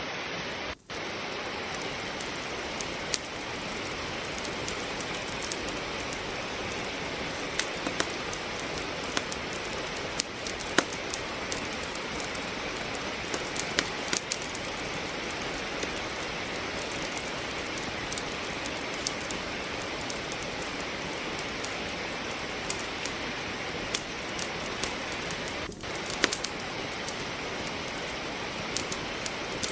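Steady rain falling, with a wood fire in a fireplace crackling over it in scattered sharp pops. The sound drops out for an instant about a second in and again near the end.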